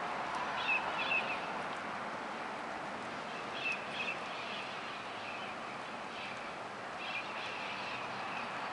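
Small birds giving a few short, high chirps, in clusters about a second in, around four seconds and around seven seconds, over a steady outdoor background hum.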